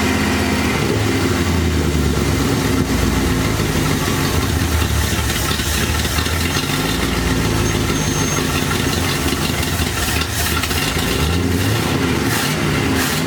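A 1973 Dodge D100's 318 V8 running at idle, its speed wavering slightly, after its first start from sitting; the owners think it needs carburetor work to idle right.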